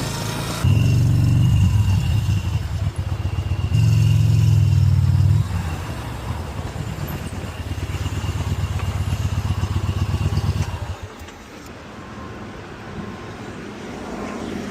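A motor vehicle engine running with a low, pulsing rumble, swelling louder twice in the first five seconds and then dropping away about eleven seconds in.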